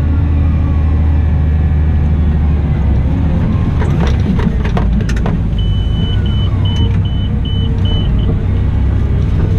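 Cat 972M XE wheel loader's engine running with a steady low hum, with a few sharp knocks about four to five seconds in. Then a high-pitched beep sounds: one longer tone followed by about six short beeps.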